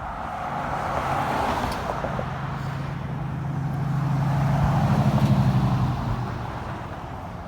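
A road vehicle driving past close by: a low engine hum with tyre noise that builds to its loudest about five seconds in, then fades away.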